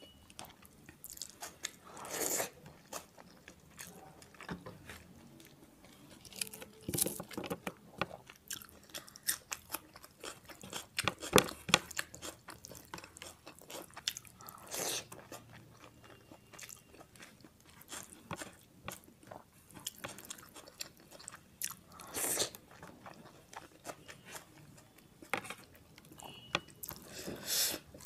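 Close-miked eating sounds: a person chewing mouthfuls of rice and minced mutton eaten by hand, with many sharp wet mouth clicks and smacks.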